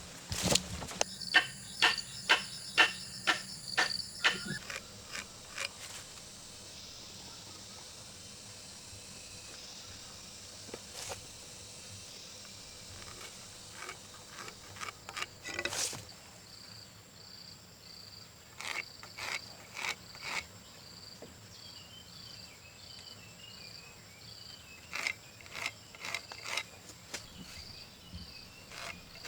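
Bursts of quick strokes of a hand tool working a wooden post, about three a second in a run near the start, then in shorter clusters. Insects call throughout, a steady high buzz that becomes an evenly pulsing chirp in the second half.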